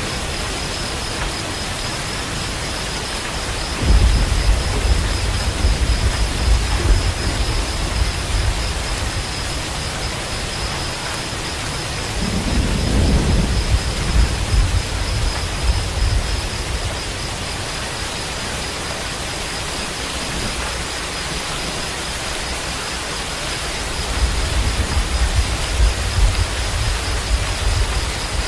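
Steady heavy rain with low rolls of thunder that swell and fade three times, each lasting a few seconds. A thin, steady high-pitched tone runs under the rain.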